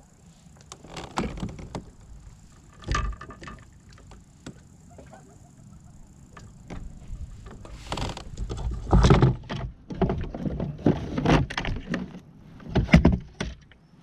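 Irregular knocks, clunks and rattles of a fish and gear being handled aboard a kayak, with the loudest knocks about nine seconds in and near the end.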